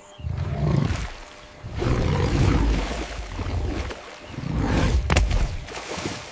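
An animal growling low in three long, rough swells, with one sharp click about five seconds in.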